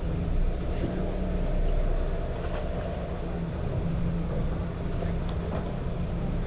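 Harbor shuttle boat's engine running, a steady low drone under an even hiss of noise.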